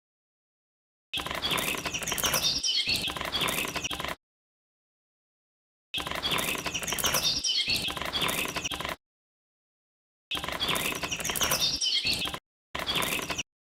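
Birds chirping, a short recorded clip played three times over with dead silence between the repeats.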